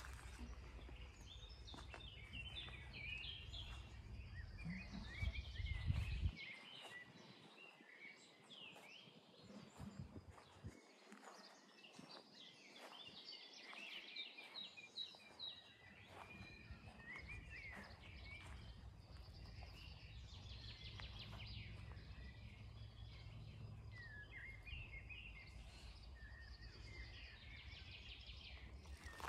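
Small birds singing: many short, high chirps and trills throughout, over a faint low rumble that drops away for several seconds in the middle.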